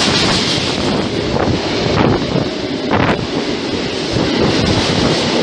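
Freight train of double-deck car-carrier wagons passing close by: a steady loud rumble of steel wheels on the rails with a few sharp wheel knocks, and wind buffeting the microphone.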